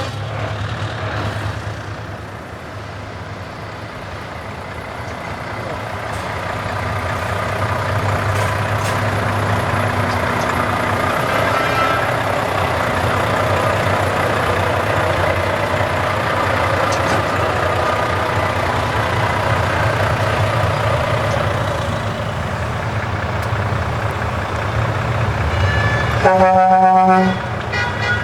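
Heavy truck diesel engines running as trucks drive past, swelling in loudness. Near the end a truck air horn sounds once, loudly, for about a second.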